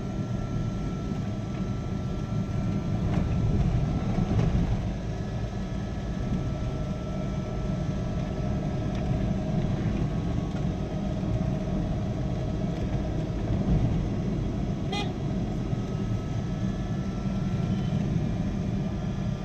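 Steady rumble of a moving truck's engine and road noise, with faint horn tones in the traffic. There is one sharp click about fifteen seconds in.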